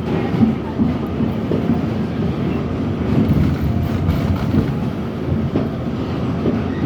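New York City Subway R68 train running: a steady low rumble with scattered knocks from the wheels on the track.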